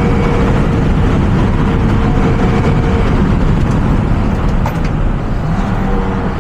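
A Renault Mégane RS driving along, its engine and tyres making a steady, loud running noise with no revving.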